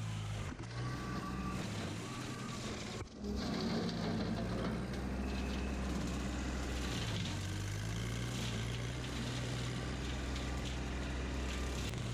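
Kubota L3200 tractor's diesel engine running steadily under work. Its note shifts a few times, with a brief break about three seconds in.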